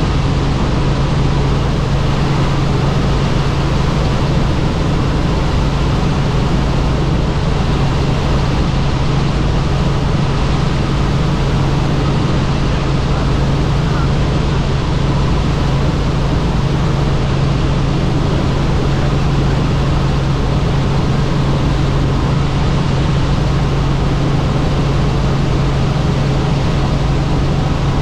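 Helicopter in flight: loud, steady engine and rotor noise with a constant low hum that does not change in level or pitch.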